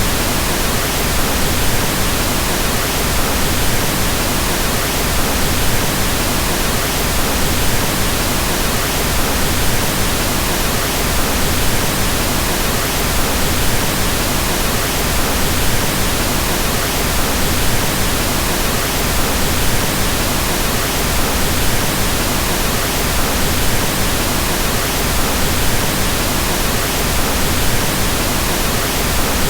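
Pink noise: a steady, even hiss spread across all pitches, with more energy in the low end, unchanging throughout.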